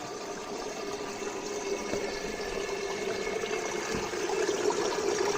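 Creek water flowing and splashing over stones in a steady rush, growing a little louder toward the end.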